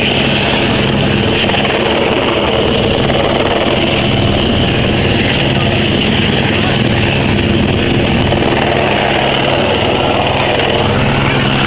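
Rescue helicopter's engine and rotor running, loud and steady, with an even low hum throughout.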